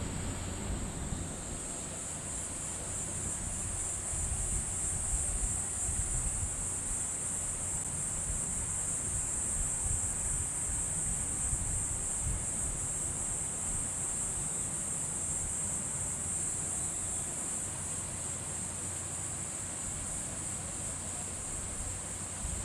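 A steady, high-pitched chorus of insects that does not let up, over a low rumble of wind on the microphone.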